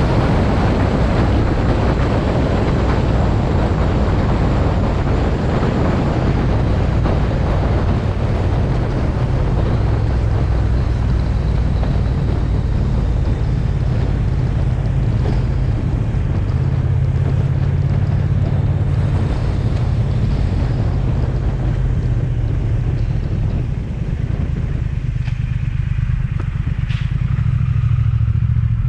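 Triumph Speed Twin parallel-twin motorcycle engine running steadily on the move, under a constant rush of wind noise that eases a little over the last few seconds.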